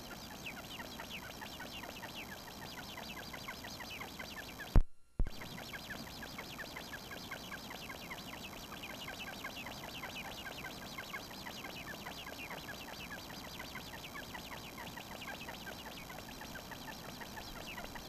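High, thin, downward-sliding bird chirps, several a second, keep up without a break. About five seconds in, two sharp clicks frame a brief dropout in the recording.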